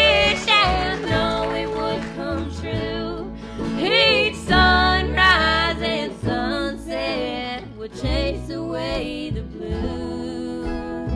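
Country-style song played live: guitar accompaniment with a wavering melody line carried over it.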